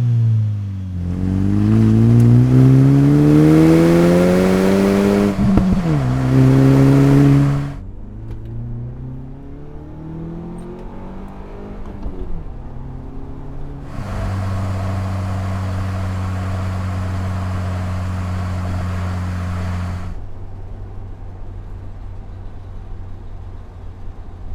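Ford Bronco engine through a Magnaflow Crawler Series cat-back exhaust with a straight-through muffler, revving up and back down a couple of times, then holding a steady, louder note for several seconds before dropping to a quieter idle. The note is deep with some raspiness.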